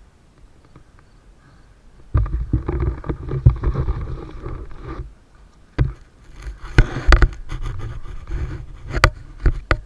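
Mountain bike riding over a rough dirt trail: rattling, scraping tyre and frame noise with sharp knocks as it hits bumps. The first two seconds are quiet, and a single loud knock falls near the middle.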